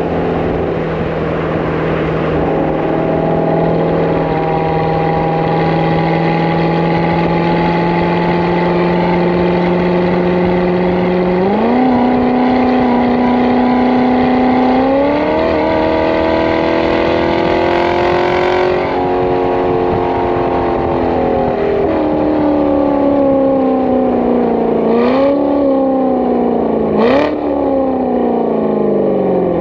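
Supercharged 6.2-litre V8 of a Callaway Corvette Z06 through an Akrapovic cat-back exhaust. It holds a steady engine speed for about ten seconds, then the pitch steps up and climbs as the car accelerates, and falls away as it slows. Two short, sharp throttle blips come near the end, then the revs fall again.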